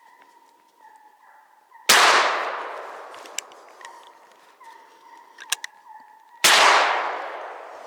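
Two gunshots about four and a half seconds apart, each a sharp blast that echoes and dies away over a second or more, fired at a hare being run by a hound.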